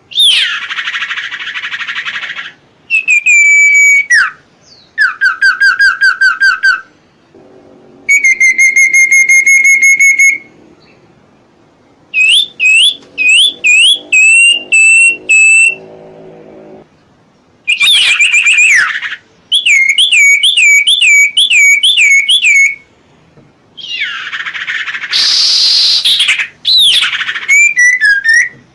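Serpu (cipo) songbird singing loudly in bouts: rapid repeated whistled upslurs, a held whistle, fast trills, and two harsh hissing notes, with short gaps between phrases.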